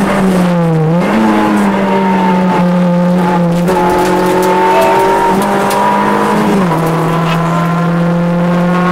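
Rally car engine running hard, heard from inside the cabin, its pitch dipping briefly about a second in and stepping down again later on.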